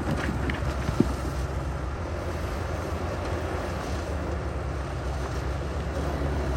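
Heavy diesel earthmoving machinery running steadily with a deep rumble, and a single sharp knock about a second in.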